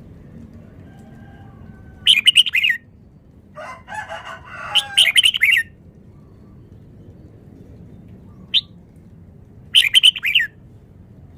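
Red-whiskered bulbul singing short, quick song phrases: three loud bursts a few seconds apart, with quieter chattering between the first two.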